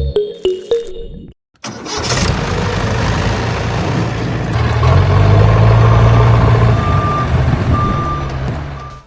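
A vehicle engine starts up and runs, its low hum swelling in the middle, with three short high beeps about a second apart near the end like a reversing alarm. Music ends just before it starts.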